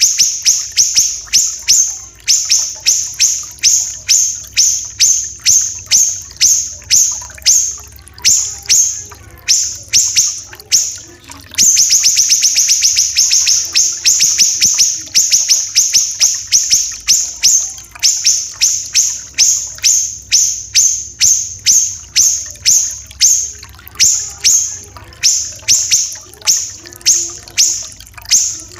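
Siri-siri kecil singing a long series of sharp, high, harsh notes, about three a second. About twelve seconds in comes a rapid, tightly packed trill lasting a few seconds, and the song pauses briefly now and then.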